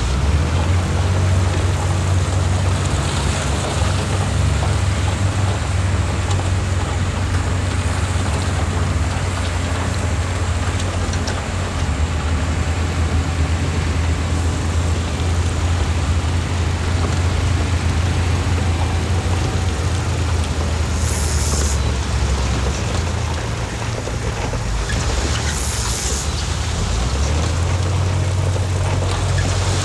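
Heavy diesel earthmoving machinery running steadily under load, a deep engine drone with a rough clattering haze over it. Two short high hisses break in during the last third.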